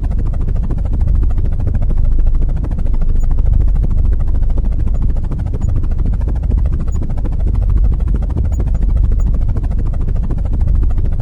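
Helicopter rotor sound: a steady, rapid chopping over a heavy low rumble.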